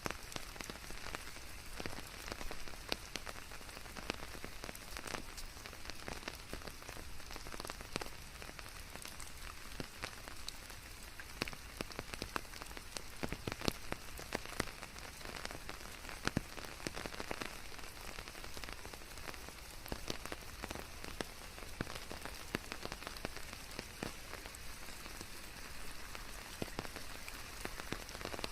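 Steady rain falling on leaves, an even hiss of rainfall with many individual drops pattering close by.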